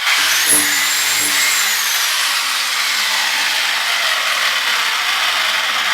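Handheld power tool running steadily while stripping old plaster off a brick wall, its motor pitch rising at the start and slowly sagging under load.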